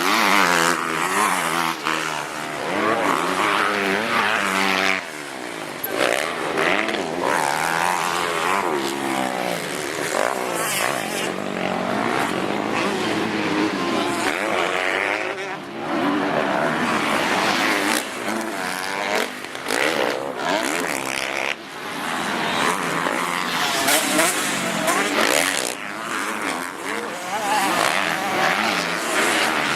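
Motocross bike engines racing, their notes rising and falling over and over with throttle and gear changes, several running at once.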